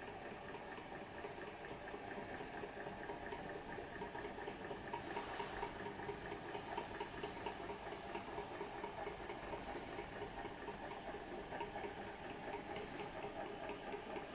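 Small model engine running steadily and driving a Baker fan, with a fast, even mechanical beat. It grows a little louder about five seconds in.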